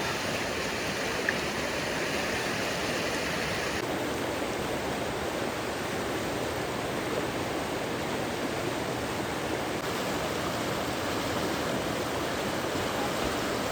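Floodwater rushing in a steady, even stream, with no break. The sound dulls slightly about four seconds in.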